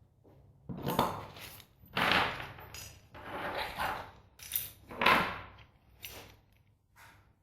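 Metal parts clinking and clattering as they are handled, about six separate knocks roughly a second apart, some with a short metallic ring.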